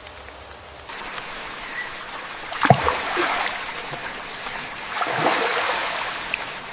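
Water rushing and splashing: a steady rush begins about a second in, with a sharp splash a little before the midpoint and a second, longer surge about three quarters of the way through.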